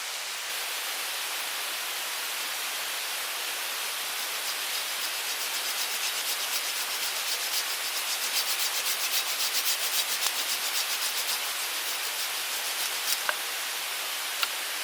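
Quick, even scraping strokes, about four a second, for several seconds over the steady rush of a mountain stream, then two light clicks near the end.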